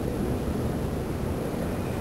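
Wind buffeting the microphone during a snowstorm: a steady rumble heaviest in the low end, with no distinct events.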